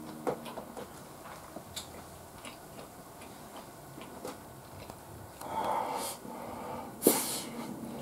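Close-miked eating: soft chewing with small, scattered wet mouth clicks. A louder noisy stretch comes at about five and a half seconds and lasts under a second, and one sharp click, the loudest sound, comes about seven seconds in.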